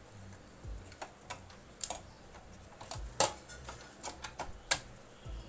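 Scattered sharp clicks and light taps, with a few soft thuds, as the main board is fitted back into a Pioneer CDJ-350 CD player.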